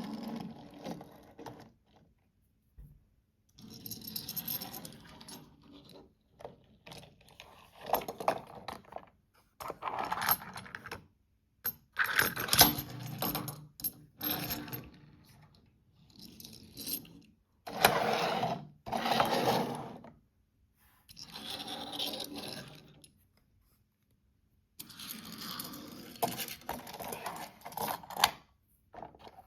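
Small hard plastic toy pieces clattering, rattling and scraping as they are handled, in about ten separate bursts with short silent gaps between them.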